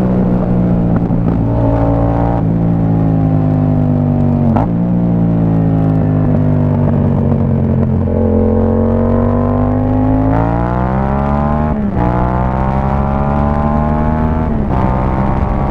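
Sport motorcycle with an aftermarket exhaust accelerating through the gears. The engine note climbs, then drops sharply at each upshift, four times in all. In the middle it eases off and then builds again.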